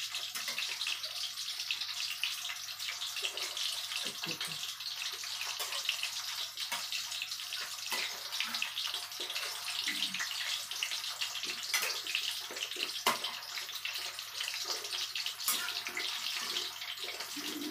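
Minced pork and shrimp patty sizzling in hot oil in a frying pan: a steady hiss with a few faint clicks from the spatula.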